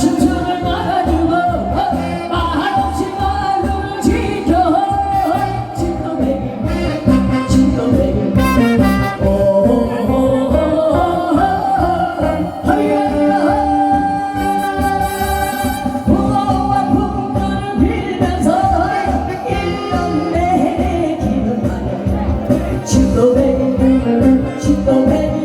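A woman singing a Korean trot song with vibrato over instrumental backing music with a steady beat.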